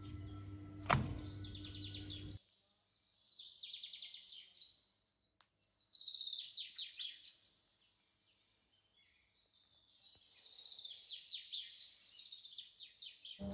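A small bird singing in three bursts of rapid, high chirping trills. Before the first burst there is a steady low hum with a single knock about a second in, and the hum cuts off suddenly.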